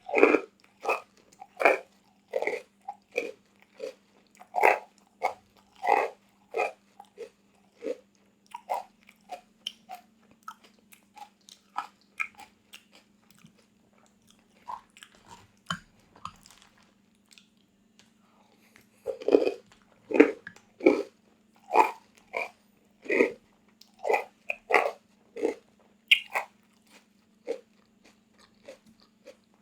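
Close-miked eating of crunchy food: crisp biting and chewing crunches, about one or two a second. They thin out for a few seconds about halfway, then come back louder.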